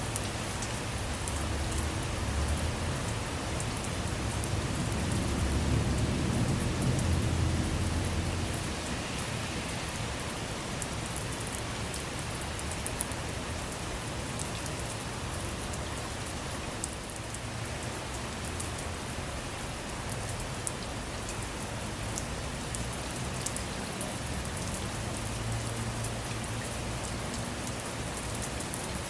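Steady rain falling on a car, with scattered drop ticks. A low rumble of thunder swells and fades over the first eight seconds or so, and a fainter rumble comes near the end.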